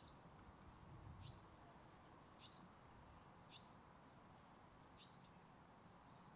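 A bird calling faintly: a short, high chirp repeated five times, a little more than a second apart, over a faint steady outdoor hiss.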